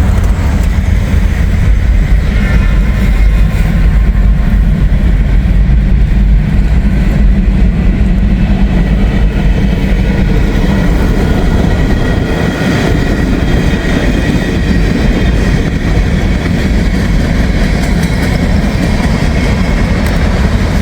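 Freight train cars rolling past close by: a loud, steady rumble of steel wheels on rail.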